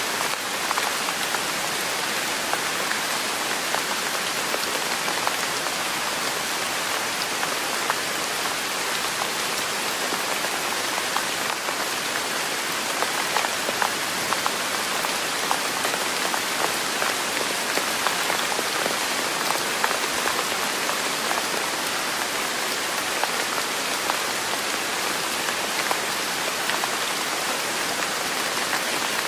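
Steady rain falling on a surface: a constant even hiss with many separate drops ticking through it, unchanging throughout.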